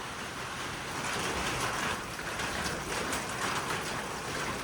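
Heavy wind-driven rain, a steady hiss that swells and eases with the gusts.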